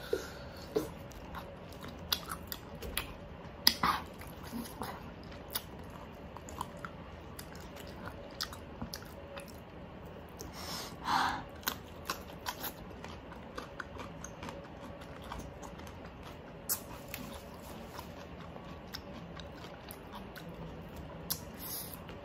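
Close-miked chewing and biting of crispy oven-baked pork, with scattered short crunches; a louder crunch about eleven seconds in comes with a bite of fresh cucumber.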